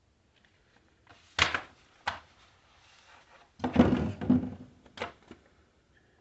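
Knocks and clunks from parts of a coffee machine being handled and fitted: a sharp knock about a second and a half in, a click, a louder cluster of clunks around the middle, then one more knock.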